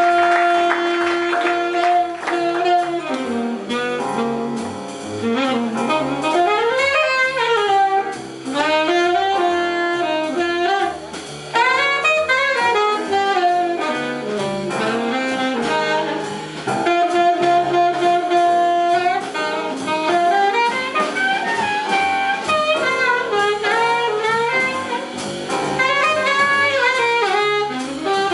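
Live big band jazz: a soloist plays a winding melodic line over the band, with long held notes and quick runs up and down.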